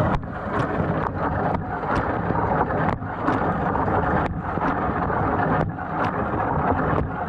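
GE dishwasher running its wash cycle: water spraying and splashing inside the tub in a steady rush, with sharp splashes two or three times a second.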